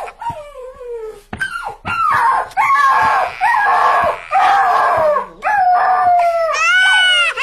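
Howling: a series of long, wavering cries, most sliding down in pitch, with a higher cry near the end that rises and then falls.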